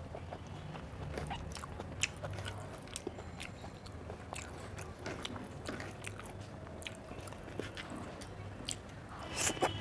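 Close-up eating sounds: a person chewing a mouthful of rice and curry, with many small wet mouth clicks and a few light crunches at irregular moments. A low steady hum sits underneath.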